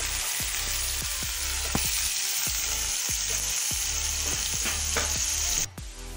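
Sliced onions and green chillies sizzling steadily in hot oil in a kadhai, with a spatula stirring and knocking against the pan now and then. The sizzle cuts off suddenly near the end.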